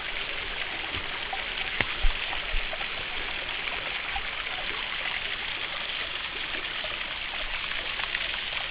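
Water running over the rock shelves of a small cascading waterfall: a steady rush. A few soft knocks come about two seconds in.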